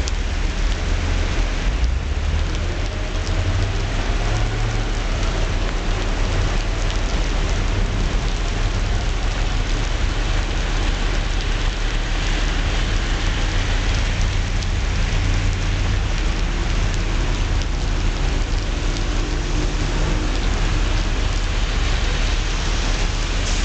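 Heavy rain falling steadily, a dense even hiss, over a constant low rumble.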